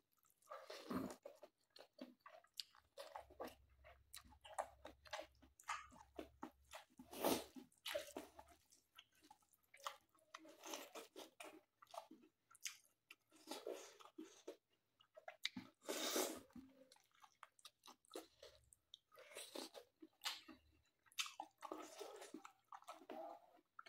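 A person chewing and crunching mouthfuls of rice, mutton and leafy greens eaten by hand, heard close up as irregular crackling bites, with louder crunches about seven and sixteen seconds in.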